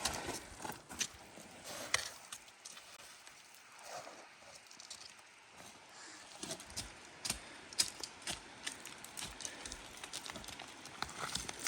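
Hikers' footsteps on a rough, loose trail: irregular steps and scrapes, sparse at first and coming more often in the second half.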